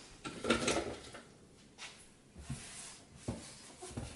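Kitchen handling noises: a short rustling scrape about half a second in, then four light knocks and clicks as containers and utensils are handled and set down.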